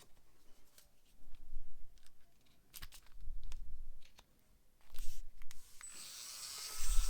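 Hand work on a rusty metal lighter: scattered small clicks and knocks with bouts of rubbing and scraping. Near the end a longer hissing scrape swells up.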